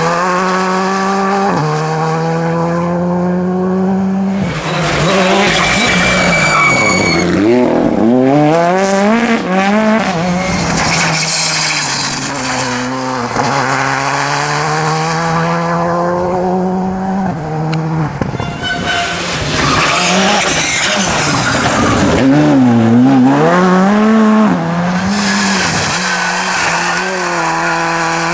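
Rally cars' turbocharged four-cylinder engines revving up and dropping off again and again as they brake, shift and accelerate through the stage, with spells of tyre squeal.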